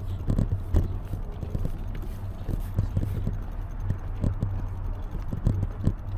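Bicycle ride on rough pavement: irregular knocks and rattles from bumps, over a steady low rumble of tyres and wind.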